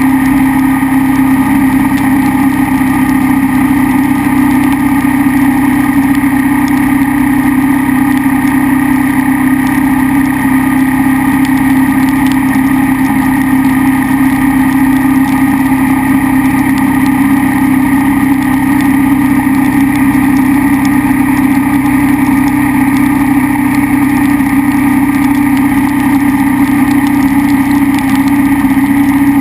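KTM 990 SMR's V-twin engine running at a steady, unchanging pitch, with no revving.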